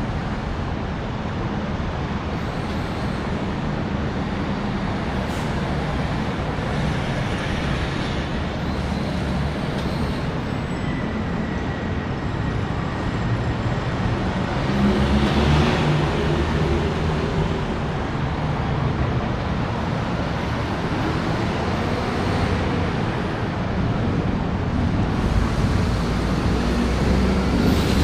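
Steady expressway traffic noise, a continuous low rumble of passing cars and heavier vehicles, swelling briefly about halfway through and again near the end.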